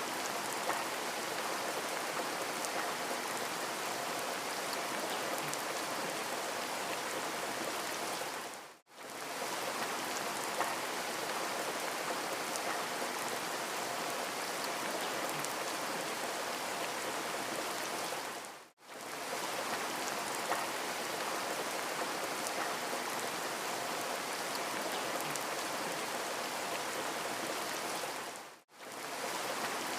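Steady rain falling, with scattered faint drop ticks. The recording is a loop: it fades out to near silence and straight back in about every ten seconds, three times.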